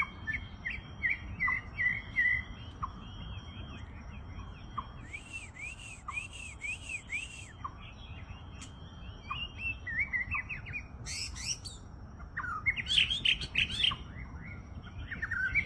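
White-rumped shama (murai batu) singing a varied song of short chirps, a run of arched whistled notes and quick rapid phrases, the loudest and busiest near the end.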